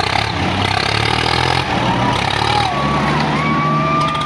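Tractor diesel engine running steadily, its note stepping up about three seconds in, under a haze of crowd noise.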